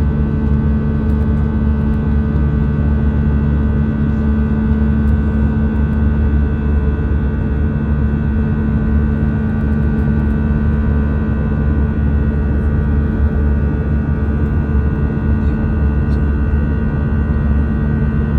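Airbus A319 jet engines droning steadily in flight, heard from inside the cabin: a low rumble with several steady humming tones that neither rise nor fall.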